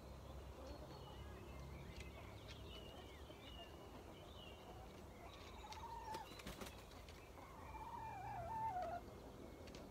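Faint bird calls at dusk: scattered high chirps throughout, a short wavering mid-pitched call about six seconds in, and a louder wavering call from about 7.5 to 9 seconds. A few brief clicks fall near the middle.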